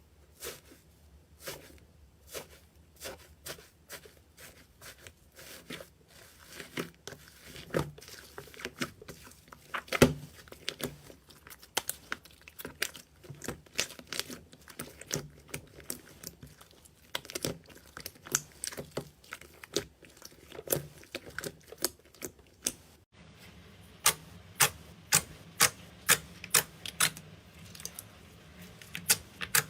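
Slime being squeezed and poked by hand, making a run of sharp wet clicks and pops. About 23 seconds in the sound cuts to another clip, where the pops come at an even pace of about two a second.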